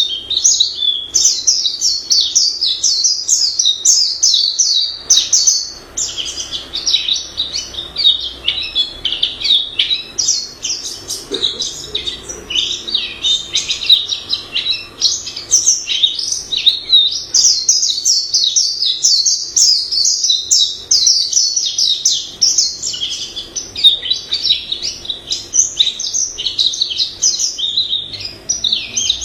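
White-eye singing a long, rapid, varied warbling song of high chirping notes, almost without a break, with brief lulls about five and ten seconds in.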